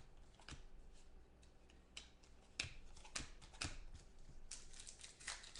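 Football trading cards being handled and sorted, giving light, irregular clicks and taps of card edges, with a small cluster of quicker clicks near the end.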